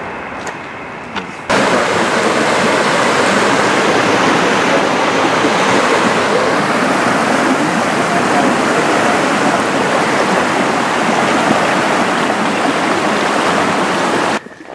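Loud, steady rush of water from a mountain creek cascade close by. It starts abruptly about a second and a half in, after a quieter steady background, and cuts off just as abruptly near the end.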